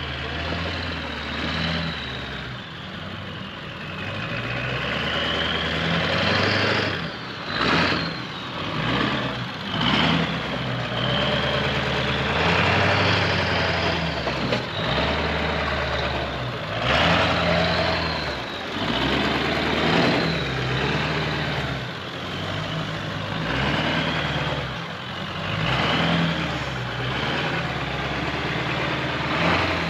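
Truck engine running at low revs while crawling over rocks, with louder, noisy surges every few seconds.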